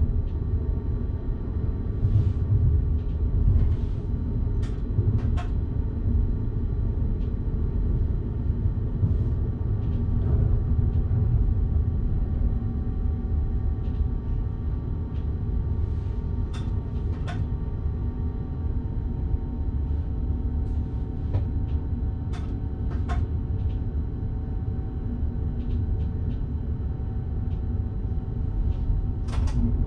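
Electric train running along the track, heard from the driver's cab: a steady low rumble with faint steady whining tones, and scattered sharp clicks and knocks every second or two.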